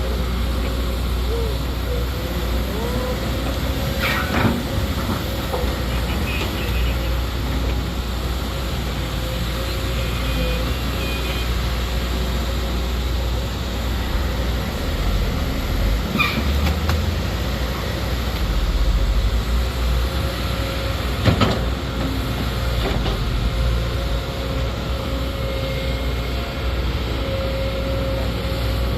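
Sumitomo SH210 hydraulic excavator running steadily at work, its diesel engine and hydraulics humming, with three sharp knocks spread through.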